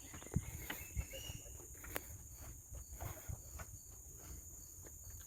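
Forest insects keep up a steady high-pitched drone, with footsteps of someone walking along a trail.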